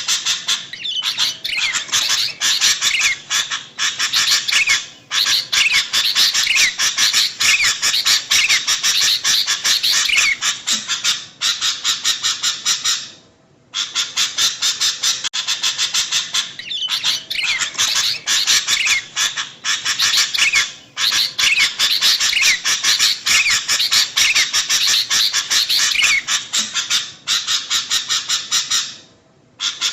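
Sooty-headed bulbuls calling in a rapid, noisy chatter of chirps, a female calling for a male. The chatter breaks off briefly twice, about halfway through and near the end, and then starts over.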